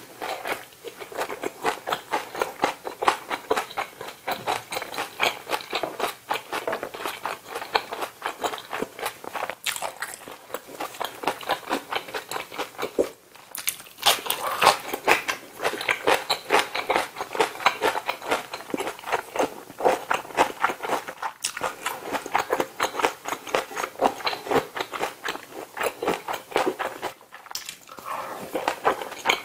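A person chewing and biting food close to the microphone, with a dense run of quick wet mouth clicks and crunching. It breaks off briefly about halfway through and again near the end.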